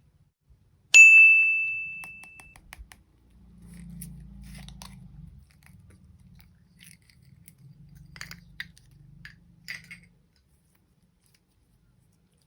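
A single bright ding about a second in, ringing out and fading over about a second and a half, followed by faint small clicks and soft rustling handling noise.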